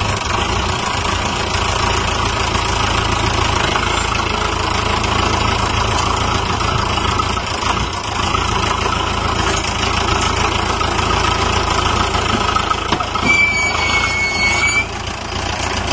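Tractor engine running steadily. Near the end a steady high-pitched tone sounds for about a second and a half.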